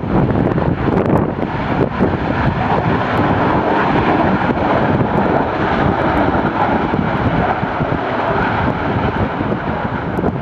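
Aircraft engines running loud and steady as a plane goes by at an airport, a dense rush of noise with a low rumble that swells a little around the middle.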